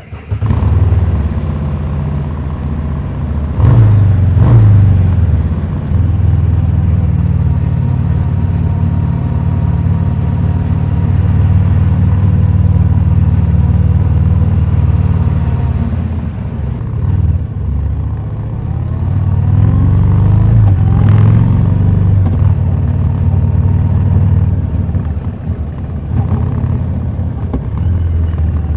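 Harley-Davidson Street 750's V-twin running through a Vance & Hines slip-on exhaust, mostly at a steady pitch, with the revs rising about four seconds in and again for a few seconds past the middle.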